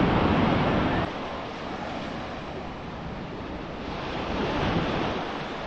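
Waves washing onto a beach, with wind buffeting the microphone. A louder wash at the start cuts off suddenly about a second in, and another swells up and fades near the end.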